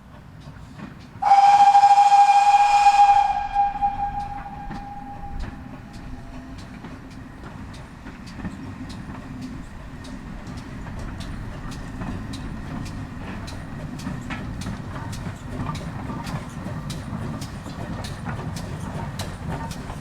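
Great Western steam locomotive whistle giving one long blast about a second in, which dies away with an echo. It is followed by the train running with a rumble and a rhythm of sharp clicks that slowly quickens.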